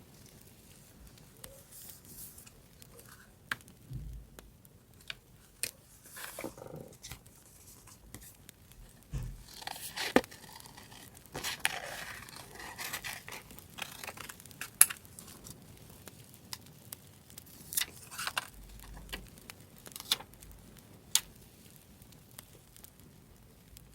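Paper being handled for journaling: rustling and tearing of paper, with scattered sharp clicks and taps, busiest about halfway through.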